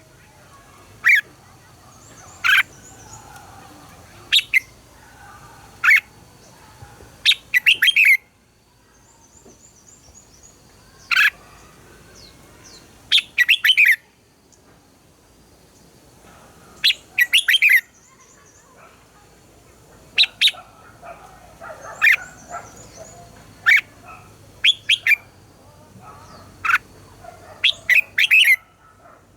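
Red-whiskered bulbuls singing their loud competitive song: short, loud whistled phrases every second or two, with fainter high twittering behind them.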